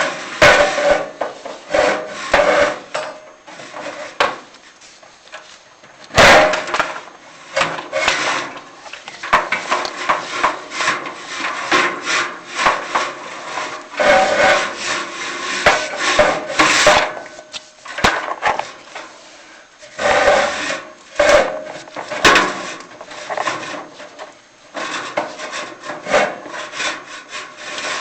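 Chimney inspection camera scraping and rubbing against the inside of a prefab fireplace's metal flue as it is worked down, in irregular bursts with a few sharper knocks.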